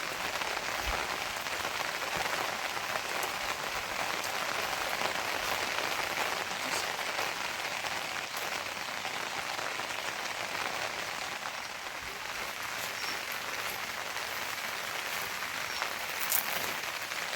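Steady rain falling: an even hiss of drops with scattered faint taps and one sharper tap near the end.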